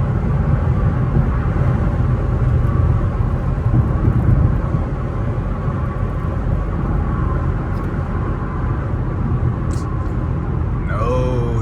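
Steady road and engine rumble inside a 2010 Infiniti cabin while driving, dipping slightly about halfway through.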